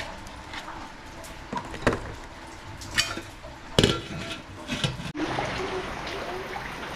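Steady hiss of rain, with several sharp knocks and clatters in the first half and an abrupt change in the background about five seconds in.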